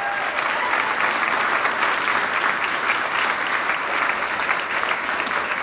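Crowd applauding, a steady patter of many hands clapping, with some cheering.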